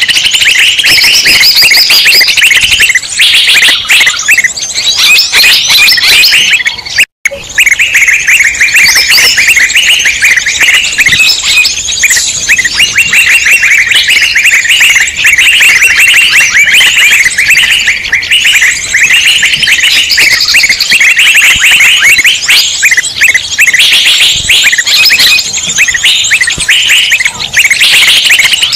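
Dense, loud chorus of many small birds chirping and twittering rapidly all at once, the busy agitated-flock sound used in a bird-lure (pikat) recording. The sound cuts out for a split second about seven seconds in.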